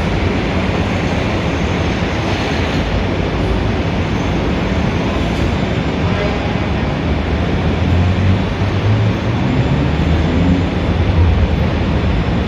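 Steady city traffic roar on a busy street, with a deep rumble that swells in the second half.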